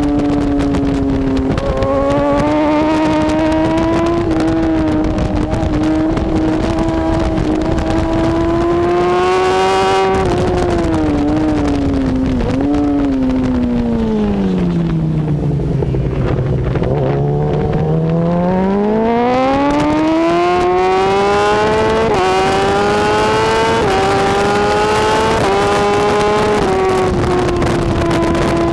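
BMW S1000RR superbike's inline-four engine at racing speed with wind rush. The revs climb through a run of quick upshifts, drop steeply about halfway through as it brakes and downshifts, then climb through upshifts again.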